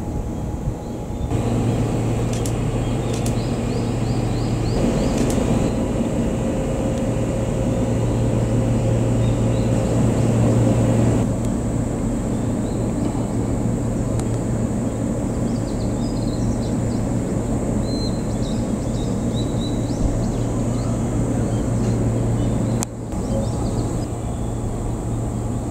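Steady low hum of a 115-series electric train, with birds chirping at times. The sound shifts abruptly a few times.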